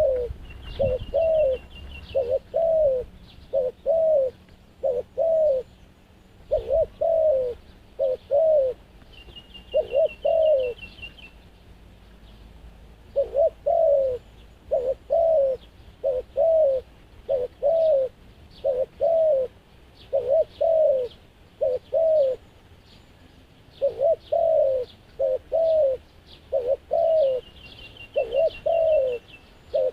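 A dove cooing over and over: short, low, downward-slurred coos about one every 0.7 s, in runs broken by brief pauses. A small bird's quick high trill comes in three times.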